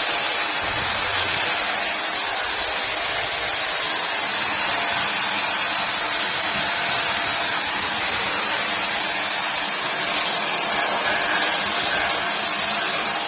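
Handheld vacuum cleaner running steadily, a constant high rushing hiss of suction with no change in speed.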